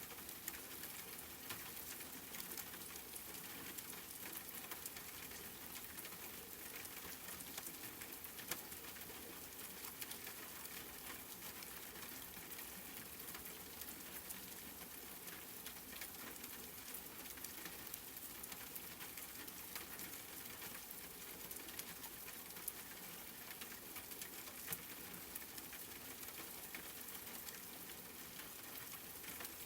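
Steady rain falling on a surface: an even hiss with many small drop ticks scattered through it.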